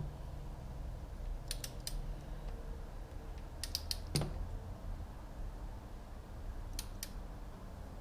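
Torque wrench ratcheting on a 13 mm bolt, small sharp clicks in three short runs, the loudest about four seconds in.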